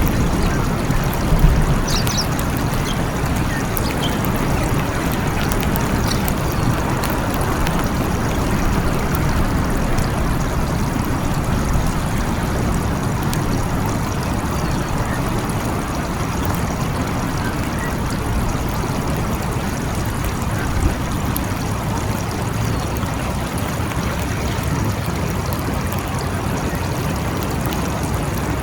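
Steady rain falling, an even hiss of water with a constant low rumble underneath.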